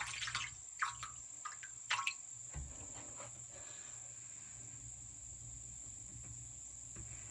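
A few faint knocks and rustles in the first two seconds as a trapped bird is being handled and freed, then a steady high-pitched whine over a low hum.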